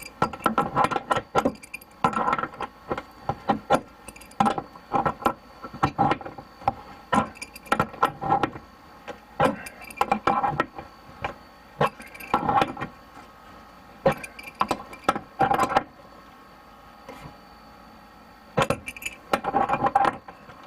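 Irregular clinking and rattling of metal plumbing fittings and hand tools being handled, in clusters with a short lull about three quarters of the way through. A steady hum from a portable air conditioner runs underneath.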